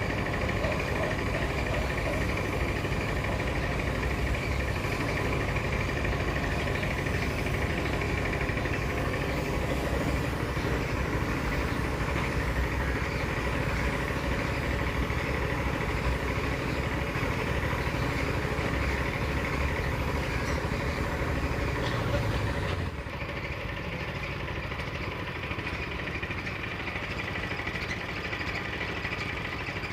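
An engine idling steadily. About 23 seconds in it drops suddenly to a quieter, thinner running sound.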